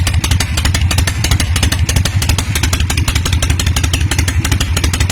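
Harley-Davidson Shovelhead V-twin motorcycle engine running steadily and loudly, with a fast even beat of firing pulses.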